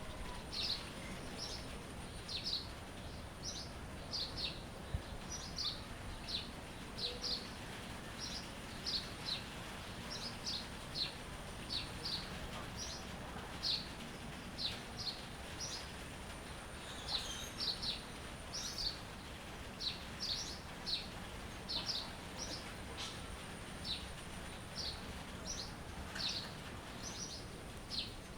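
Birdsong: short, high chirps repeated one to two a second, over a steady low background hiss and a faint steady high tone.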